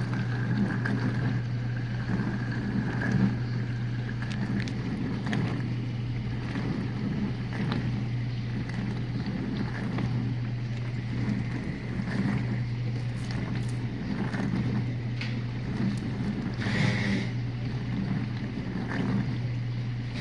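Whirlpool dishwasher running its early wash phase, before the main wash: the wash pump motor hums steadily while water sprays and sloshes inside the tub. There is a short burst of brighter hissing spray about seventeen seconds in.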